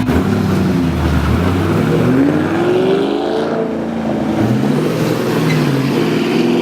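Car engine revving, its pitch climbing and dropping several times over the few seconds.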